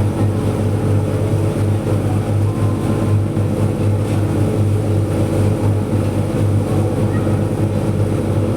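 Passenger ferry's engines running with a steady low drone.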